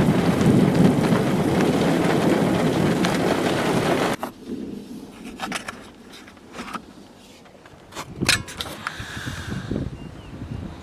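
Steady roar of rain and wind on the microphone, cutting off suddenly about four seconds in. Then a much quieter stretch with scattered sharp clicks and crackles.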